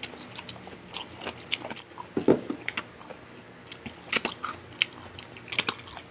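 Close-up chewing of cucumber slices with Thousand Island dressing: irregular crisp crunches and mouth clicks, a few of them louder.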